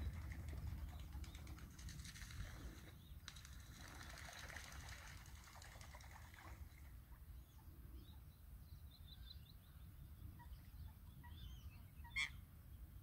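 Faint outdoor ambience: a steady low rumble of wind with rustling in the first half, then a few faint bird chirps, one sharper chirp near the end.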